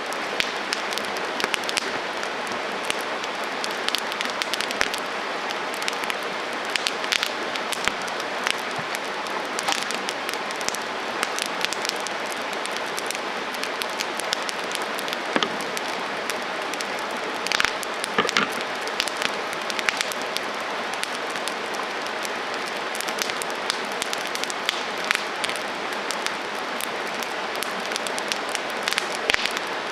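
Wood campfire burning: a steady hiss with frequent sharp crackles and pops, and a cluster of louder pops a little past halfway.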